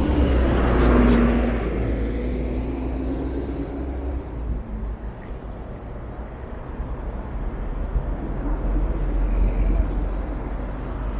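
Road traffic along a city street: a motor vehicle passes close by, its engine hum and tyre noise swelling about a second in, then fading into a steady traffic wash over a constant low rumble.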